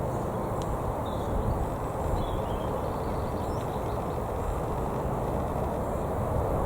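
Steady rumble of jet airliner engines at an airport runway.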